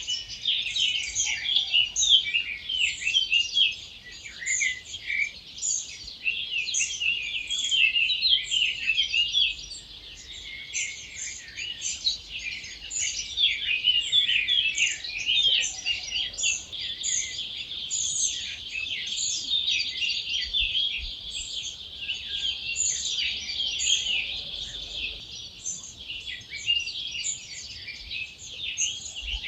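Dawn chorus: many wild birds singing at once, a dense, unbroken tangle of overlapping high chirps and trills.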